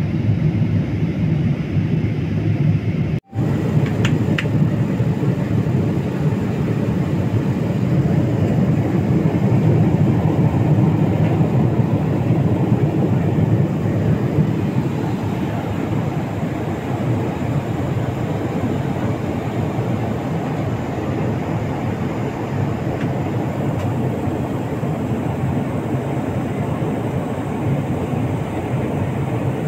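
Steady low rumble of a moving vehicle heard from inside its cabin, with a brief break about three seconds in.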